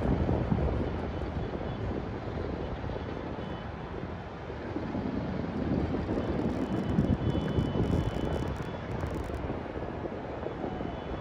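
Continuous low rumble of distant New Year's Eve fireworks across the city, mixed with wind on the microphone, swelling and easing without any single clear bang.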